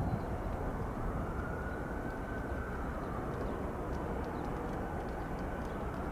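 Jet airliner engine noise: a steady rumble with a faint high whine over it around the middle.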